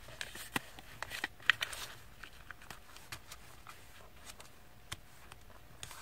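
Thin paper rustling and crackling faintly as it is curved and folded by hand, with several sharp crinkles in the first two seconds and a few more scattered after.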